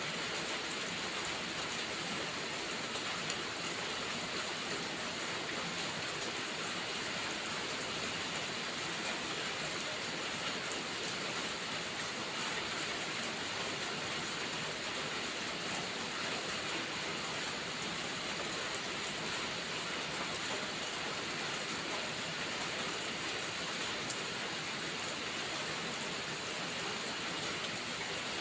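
Steady rain falling: a dense, even hiss of drops that holds the same level throughout.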